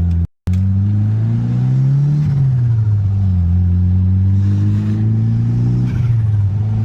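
1995 Mitsubishi Eclipse GSX's turbocharged 4G63 four-cylinder, with a big 16G turbo, pulling through the gears. The engine note rises, drops at a gear change about two seconds in, climbs again, and drops at another shift near the end. The sound cuts out for a moment just after the start.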